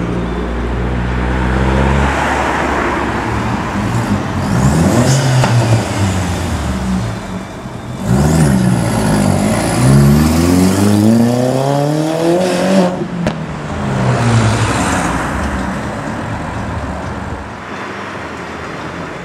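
Car engines pulling away one after another, revving as each accelerates off; the cars passing include VW Polo hatchbacks and a Porsche 911. The loudest is a long rev climbing steadily from about eight seconds in, which cuts off sharply as the driver lifts off about thirteen seconds in.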